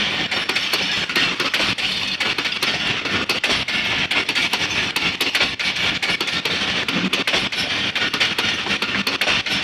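Passenger train coaches rolling past close by at about 40 km/h: a loud, steady rush of wheels on rails, with many quick irregular clicks and clatter through it.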